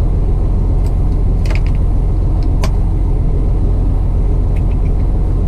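Heavy truck's Detroit DD15 diesel engine running, a steady low rumble, with a few faint clicks about one and a half and two and a half seconds in.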